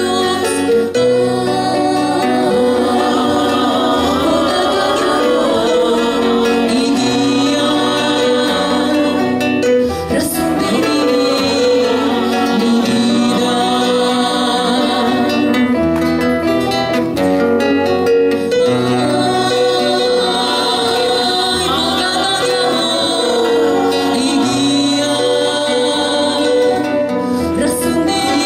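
A live band playing a Latin American song, with a singer over guitar and a steady bass line.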